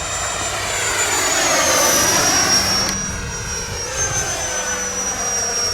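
RC model jet's 80 mm electric ducted fan whining in flight as the plane passes by. The whine is loudest about two seconds in and then drops in pitch as the plane moves away.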